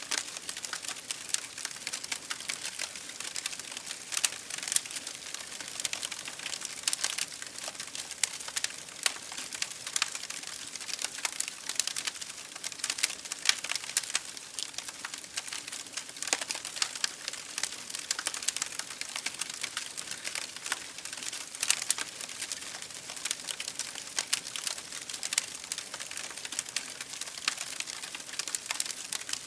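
Wood fire burning in an open fireplace, crackling and popping irregularly over a steady hiss, with many small sharp pops throughout.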